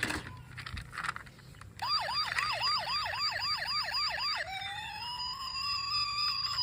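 Toy car's electronic siren. A few knocks come in the first second. From about two seconds in, a fast yelping siren rises and falls about three times a second, then changes halfway through to a slower wail that climbs and then falls away.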